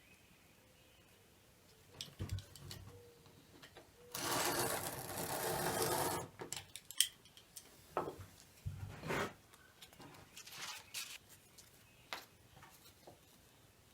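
Strapping tape pulled off the roll in one continuous stretch of about two seconds, the loudest sound, with scattered short knocks and rubs of handling before and after.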